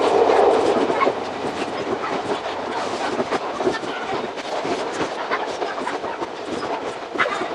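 Iga Railway 200-series electric train, an ex-Tokyu 1000-series car, running along the line with its wheels clattering over the rails in a dense stream of quick clicks, a little louder at the start.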